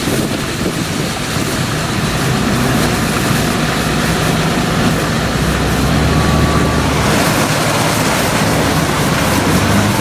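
Heavy downpour with a vehicle engine running and floodwater washing and sloshing as traffic pushes through a flooded street. The noise is loud and steady throughout.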